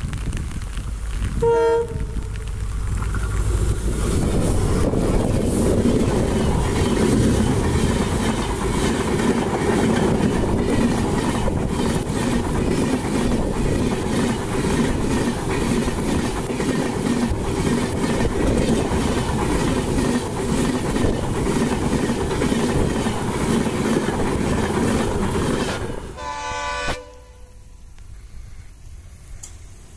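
A WDP4D diesel locomotive gives a short horn blast about two seconds in, then it and its rake of LHB coaches pass close at speed: a loud, steady rumble with rhythmic wheel clatter over the rail joints. Near the end another horn sounds and the noise drops away abruptly.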